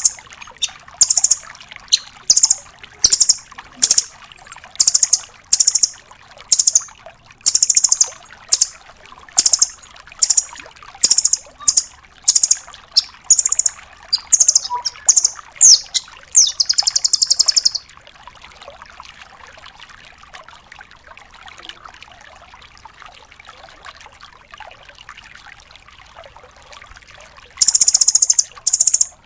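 Velvet-fronted nuthatch calling: a fast series of short, high, sharp notes, about one or two a second, ending in a brief trill about 17 seconds in. The calls then stop for about ten seconds, leaving only a faint background, and start again near the end.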